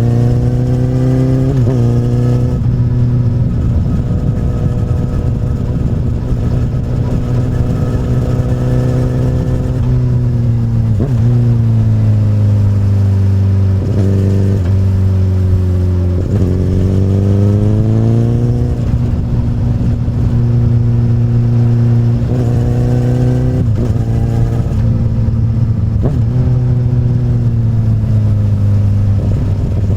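2008 Honda CBR1000RR inline-four engine running through an Akrapovic carbon slip-on exhaust while riding. The note holds steady, falls away about ten seconds in as the bike slows, then climbs again a few seconds later under acceleration, with a few short blips along the way.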